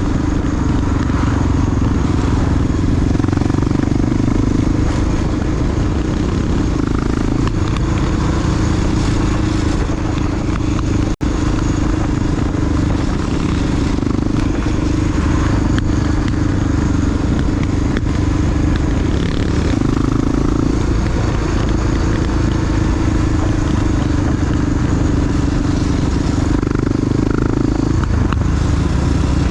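Big single-cylinder four-stroke Honda XR dual-sport motorcycle engine running steadily while riding, its pitch shifting slightly now and then. The sound cuts out for a split second about a third of the way through.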